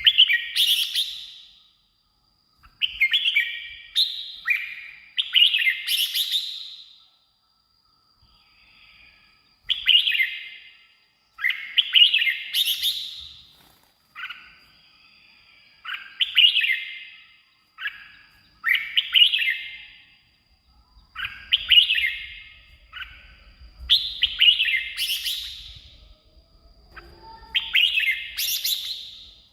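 Red-whiskered bulbul singing: a dozen or so short, bright warbled phrases, each a second or two long, with brief pauses between them.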